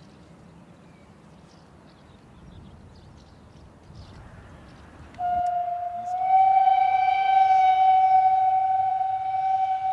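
A locomotive whistle blowing one long, steady note, starting about five seconds in after a quiet stretch of open-air background.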